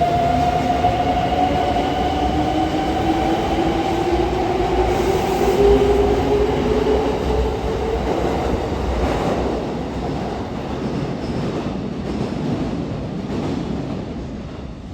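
Kintetsu 23000 series limited-express electric train accelerating: the traction motors give a whine that rises slowly in pitch over the rumble of the wheels on the rails. The whole sound fades in the second half as the train moves off.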